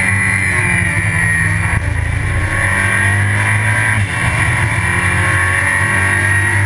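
Race car engine running hard, heard from inside the stripped, roll-caged cabin, with two brief dips in level about two and four seconds in.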